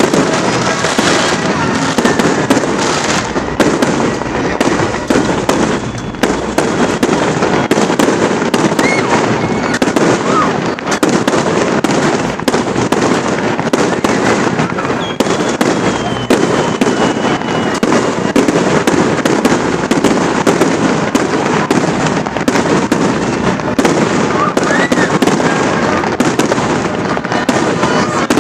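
Aerial fireworks going off in rapid, continuous succession: dense bangs and crackling with no pause.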